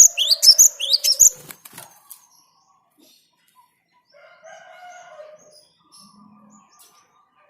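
Cinereous tit (gelatik batu) song: a fast series of sharp, rising high notes, about four a second, stopping about a second and a half in; only faint scattered sounds follow.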